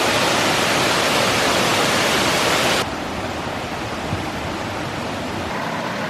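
Hareshaw Linn waterfall pouring in full spate after heavy rain: a loud, steady rushing of water. About three seconds in it cuts off abruptly to a quieter, duller steady rush.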